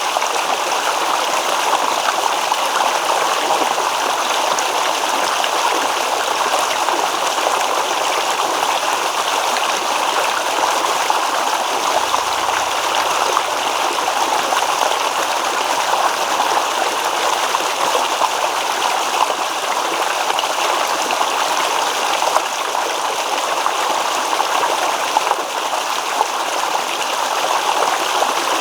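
Shallow stream babbling and rippling over stones in a steady, continuous wash of water.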